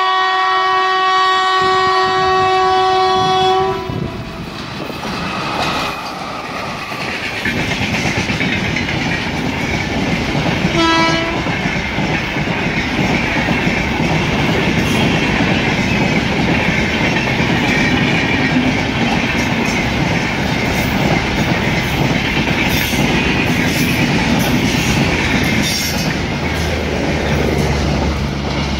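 Electric locomotive's horn sounding one long steady blast for the first four seconds or so, then a short blast about eleven seconds in. Between them the LHB coaches come by in a loud, even rumble of wheels on rail with clicks over the joints, and a low steady hum comes in near the end as the generator car at the rear passes.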